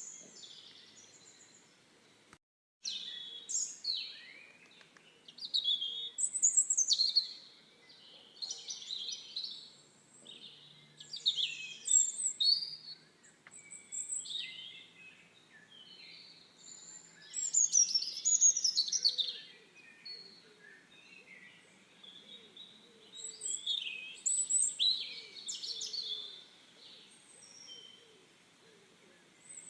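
Songbirds chirping and twittering in irregular bursts of short, high calls and trills over a faint background hiss, with a brief dropout about two and a half seconds in.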